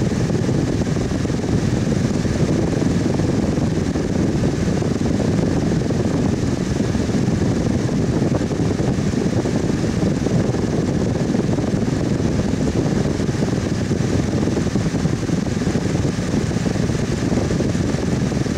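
Electric fan running steadily at one speed: an even, unbroken rush of air, deepest in the low range.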